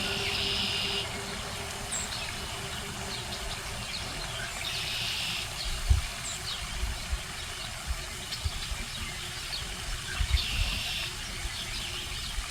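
Outdoor background: a steady hum like distant traffic, faint bird chirps, and a few low wind or handling bumps on the microphone, with a short hissing buzz about every five seconds.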